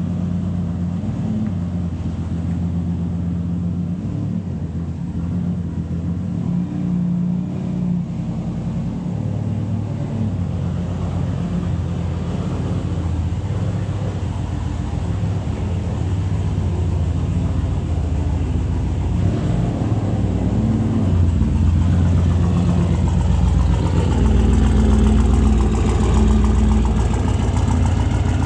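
A car engine running through a loud, barely muffled exhaust, idling and creeping at low speed, getting louder over the last few seconds. Way too loud.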